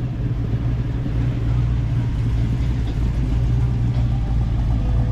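Car engine idling with a steady, low rumble.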